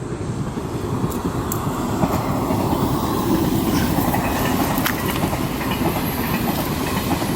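Steady rushing of a swollen river's current, a dense low noise that swells slightly about a second in, with a few faint clicks over it.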